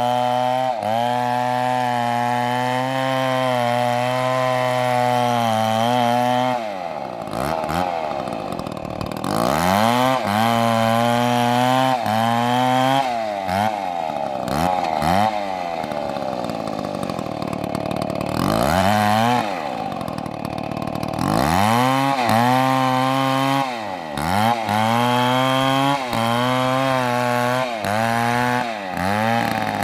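Large two-stroke MS720 chainsaw cutting into a big tree trunk. The engine runs at high revs and holds steady for the first few seconds. Through the middle its pitch repeatedly drops and climbs back as the chain bogs in the wood and revs up again, then it steadies again near the end.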